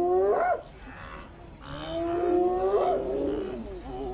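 Spotted hyena whooping: two long calls that sweep up in pitch at their ends, and a third starting near the end. It is a hyena calling its clanmates in for support.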